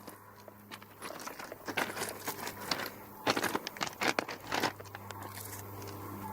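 Irregular crunching and rustling, dense from about one second in until nearly five seconds, over a steady low hum.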